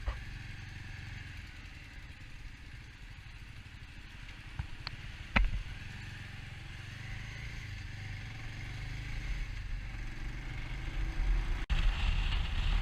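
Bajaj Avenger motorcycle running along a highway, its engine and road noise a steady low rumble, getting louder toward the end. A sharp knock about five seconds in.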